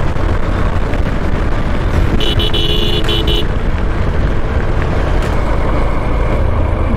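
Steady road and engine noise of a Honda X-Blade motorcycle ride in city traffic. A vehicle horn sounds about two seconds in, as a few short beeps over a little more than a second.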